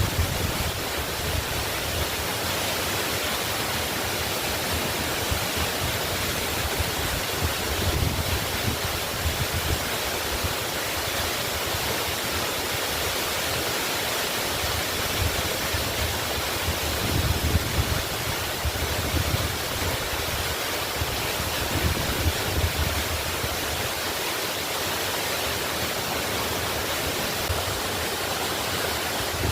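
Waterfall rushing: a steady, dense wash of falling water with an uneven low rumble underneath.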